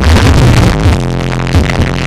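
Loud electronic dance music played through a truck-mounted carnival sound system, heavy on the bass; a little under a second in, a deep steady bass note comes in with a kick drum thumping under it.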